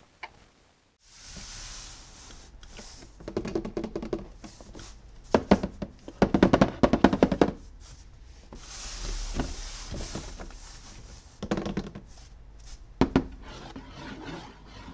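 Plastic toy packaging and toys being handled: crinkling rustles with clusters of rapid clicks and knocks, the loudest run of clicks a little after five seconds in.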